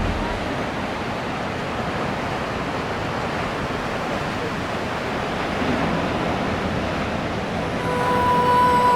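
Ocean surf breaking and washing, a steady rushing noise. Near the end a steady held tone comes in.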